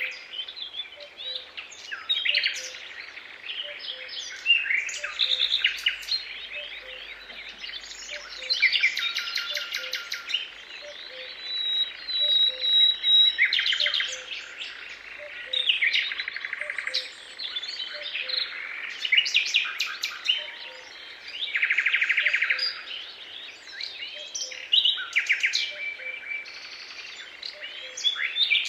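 Several songbirds singing at once in a dawn chorus: overlapping chirps, rapid trills and whistled phrases, with a faint, evenly repeated low note about twice a second beneath them.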